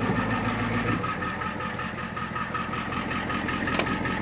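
Ford 7.3 IDI diesel engine of a 1994 F Super Duty dump truck idling steadily. Its low rumble drops off about a second in.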